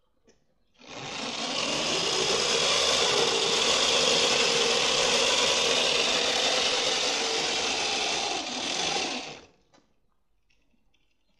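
Car alternator converted to an electric bike motor, run up on the throttle and whirring steadily at high speed through its chain drive for about eight seconds, then shut off.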